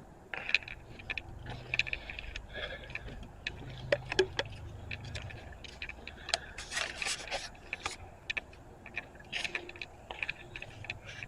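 Footsteps crunching and scraping over debris, irregular, with a denser stretch of scraping about seven seconds in.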